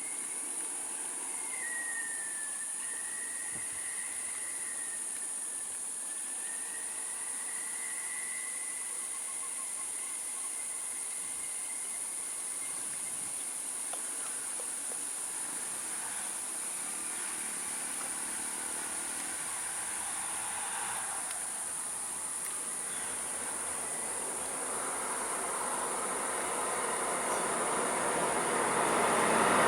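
Steady high-pitched drone of insects, with a thin wavering whistle-like tone over the first several seconds. In the last few seconds a vehicle approaches, growing steadily louder.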